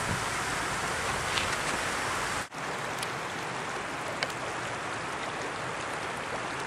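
Steady rushing of flowing water at the waterside, broken by a brief dropout about two and a half seconds in, after which it carries on slightly quieter with a few faint ticks.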